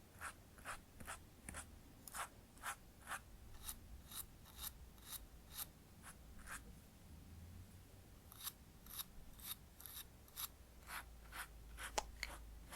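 Eyebrow brush swept in short, faint strokes, about two a second, blending brow product in. There is a pause of about two seconds midway and a sharp click near the end.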